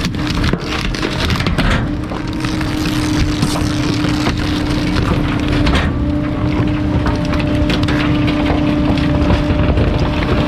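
Bulky-waste garbage truck compacting a load: wood cracking and splintering, thickest in the first six seconds, over the truck's steady humming.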